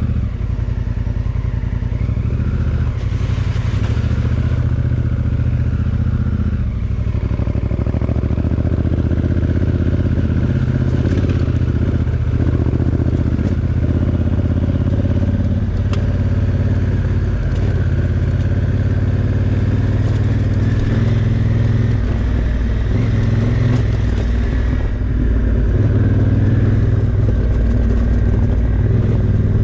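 Honda Africa Twin's parallel-twin engine running as the motorcycle is ridden. The engine note is steady, with the revs shifting a few times.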